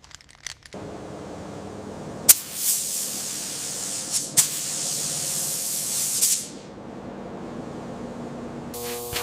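Compressed-air spray gun hissing in one burst of about four seconds, starting and stopping sharply, with a few clicks around it.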